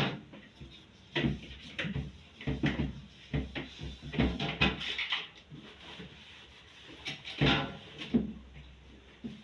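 Irregular knocks, bumps and rubbing as a fridge is rinsed and wiped out by hand, with a louder clatter about seven and a half seconds in.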